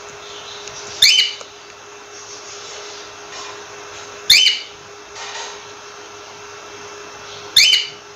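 Cockatiel giving three loud, shrill calls, evenly spaced about three seconds apart, over a steady background hum.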